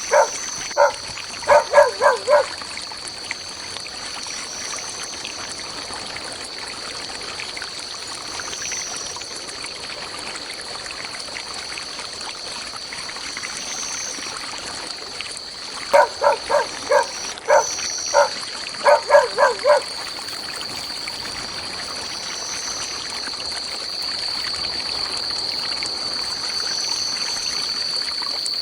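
Tropical forest ambience: a steady high-pitched insect drone over the soft trickle of a stream. Two bouts of quick, repeated animal calls break in, one at the start and another about two-thirds through.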